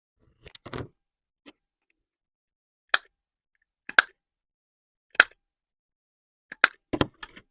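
Scissors snipping paper: a handful of short, sharp snips about a second apart, after a brief soft rustle of paper being handled near the start.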